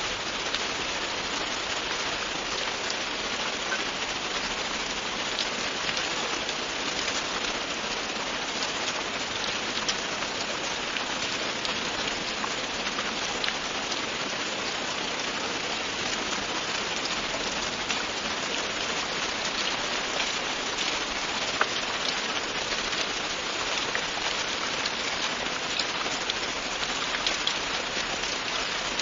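Steady, constant rainfall, with many individual drops pattering on a surface.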